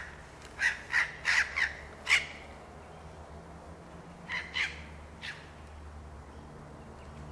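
A bird giving short, harsh calls: a quick run of five, then after a pause three more around four to five seconds in.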